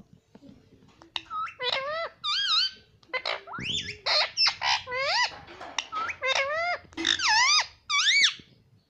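Pet ringneck parrot making a quick string of high, squeaky calls and warbling rising-and-falling whistles, which stop shortly before the end.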